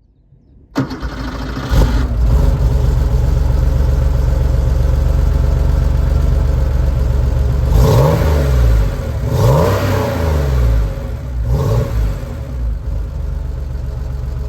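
1987 Porsche 911 Carrera 3.2's air-cooled, naturally aspirated 3.2-litre flat-six starting up, flaring briefly as it catches, then idling steadily. It is revved three times with short throttle blips, each rising and falling back to idle.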